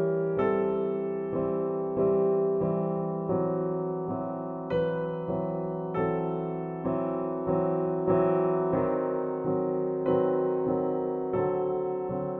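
Background music: a slow, gentle electric piano playing chords, each struck about once a second and left to fade.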